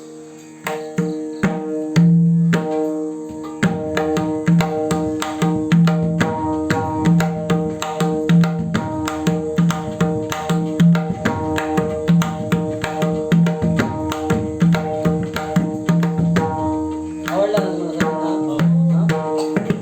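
Newly made black-system pakhawaj played in a fast, continuous rhythm, showing off its tone: crisp strokes on the treble head mixed with deep strokes on the bass head. The strokes start about a second in, over a steady drone of two held notes.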